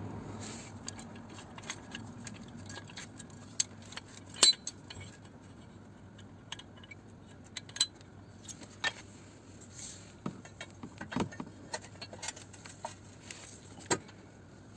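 Scattered metallic clinks and taps of hand tools being handled against metal, loudest about four and a half seconds in.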